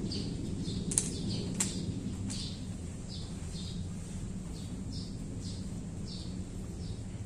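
A small bird chirping over and over, short high notes about every half second, over a low steady background hum. Two sharp clicks come about a second in and again about half a second later.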